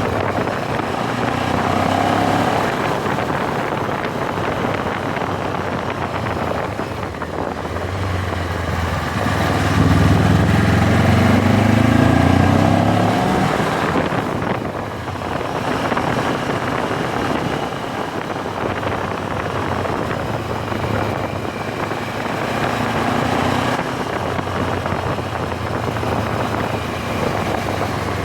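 MZ 1000 motorcycle's parallel-twin engine running under way over a steady rush of wind noise. About ten seconds in, the engine pitch rises and gets louder as it accelerates, then falls back after a few seconds.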